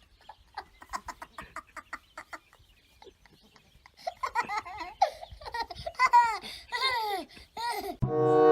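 A run of quick clicks or taps, then someone laughing in a series of short calls that rise and fall in pitch. Music comes in near the end.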